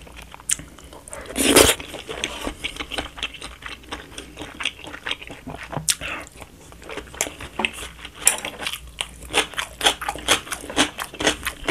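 A person chewing and biting a mouthful of stir-fried jjamppong noodles and vegetables, with a louder noisy burst about a second and a half in and a busy run of short, wet chewing sounds in the second half.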